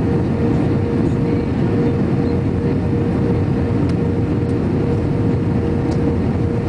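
Airbus A321 jet airliner in flight: steady engine and airflow noise, deep and even, with a constant mid-pitched hum running through it.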